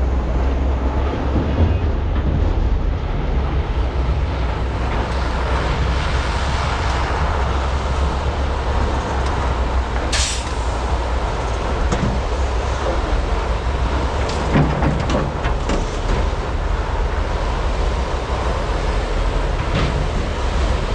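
Large diesel mining excavators running steadily with a deep rumble while loading. There is a short hiss about ten seconds in and a few knocks later on.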